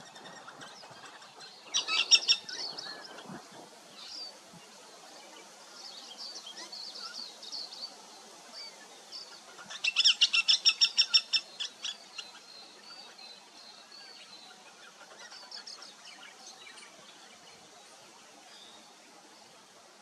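Birds calling: two loud bursts of rapid, repeated high notes, one about two seconds in and a longer one from about ten to twelve seconds, with softer scattered chirps between and after.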